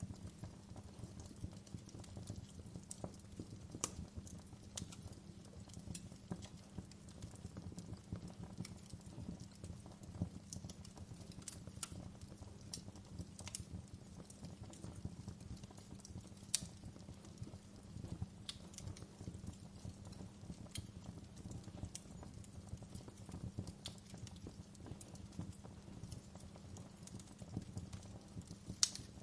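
Wood fire burning in a fireplace: irregular crackles and sharp pops over a steady low rumble of the flames, with a few louder snaps scattered through, the loudest near the end.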